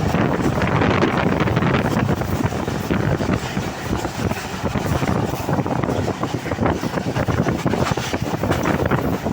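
Moving train: a steady, loud rumble with fast rattling and wind buffeting the microphone.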